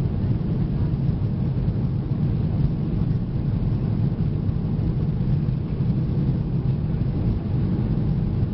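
Loud, steady low rumble of a Boeing 737-800's jet engines and rushing air, heard from inside the cabin.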